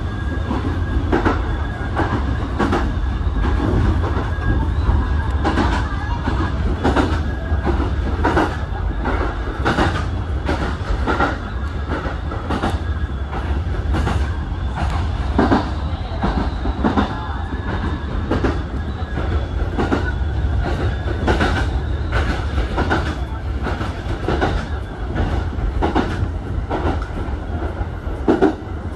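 Kintetsu 2000 series electric train running at speed, heard from inside the driver's cab: a steady low rumble with a faint high whine, and the wheels knocking over rail joints about once a second.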